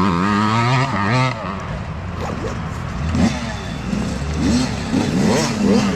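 Youth dirt bike engines revving up and down as the bikes race past, the pitch rising and falling with throttle and gear changes; several bikes overlap in the second half.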